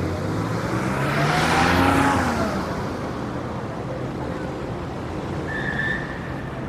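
A motor vehicle passes close by. Its engine pitch rises as it approaches and drops as it moves away, and it is loudest about two seconds in. A short, high steady tone sounds near the end.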